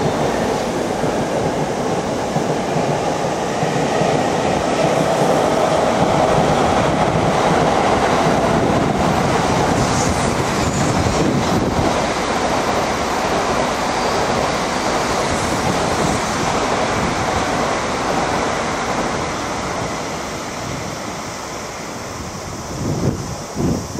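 Tokaido Shinkansen train running past on an elevated viaduct: a steady, loud rushing rumble that eases a little near the end. Low gusts of wind buffet the microphone in the last second.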